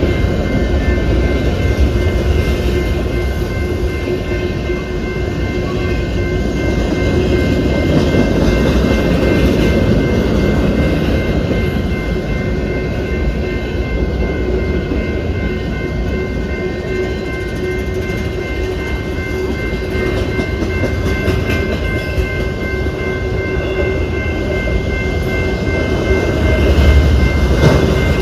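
Freight train rolling past: a steady rumble of wheels on the rails with a thin, steady high whine over it, getting a little louder near the end.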